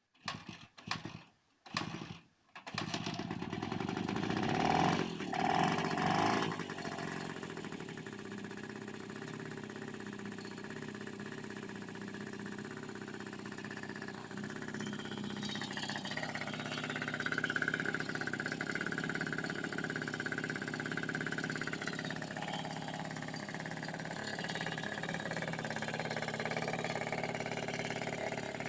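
Moskva M1A motorcycle's small two-stroke single-cylinder engine starting for the first time after restoration: a few short coughs, then it catches, is revved twice and settles into a steady idle. A steady higher whine rises over the idle about halfway through.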